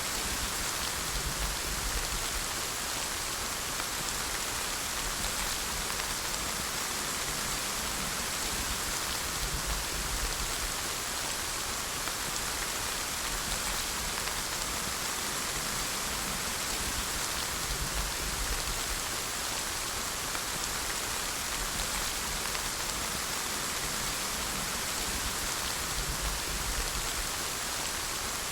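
Steady rain falling, a dense even hiss of many drops, with a low rumble swelling every several seconds.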